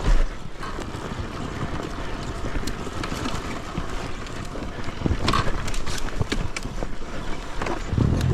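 Enduro dirt bike running over a rocky trail, with wind on the microphone and scattered knocks and clatter from the terrain. There is a loud thump right at the start, and the engine comes up louder near the end.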